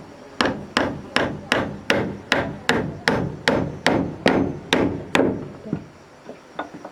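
Hammer blows on wood, struck at a steady pace of about two and a half a second. They stop about five seconds in, followed by a few lighter taps.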